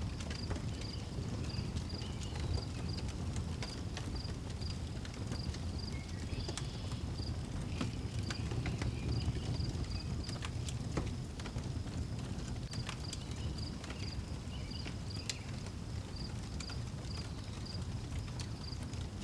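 Wood fire crackling with scattered sharp pops over a low steady rumble, while a cricket chirps in a high, regular pulse of about three chirps a second, pausing briefly now and then.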